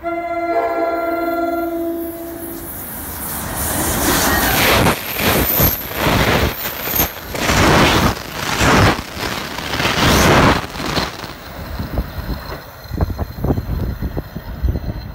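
NJ Transit ALP-46A electric locomotive sounding its multi-note air horn in one blast of about two and a half seconds, then the train with its Comet coaches passing at speed, the noise swelling and dipping about once a second as the cars go by, and fading to wheel clicks over the rail joints.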